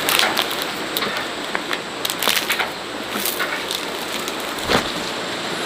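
Steady rain falling on a surface: an even hiss with many sharp drip and splash ticks scattered through it.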